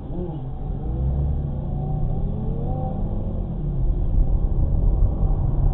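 Car engine accelerating over a steady low road rumble, its pitch rising in a few sweeps over the first three seconds and the sound growing gradually louder.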